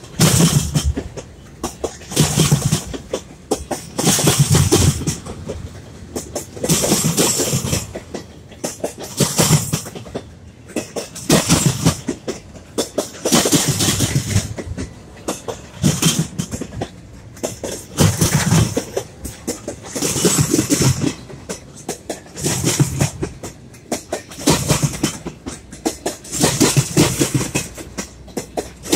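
Freight train wheels clacking over a crossover's rail joints as intermodal flatcars roll past. Each cluster of sharp clicks comes about every two seconds, as each set of wheel trucks passes. The noise is put down to a slight bow in the rail at the crossover, milder than at a worse crossover that needs replacing.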